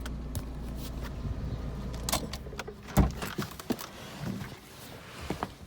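Clicks, light rattles and knocks of things being handled in a small car, such as the loose locking wheel nut tool, with one heavy thump about three seconds in, then a few fainter clicks.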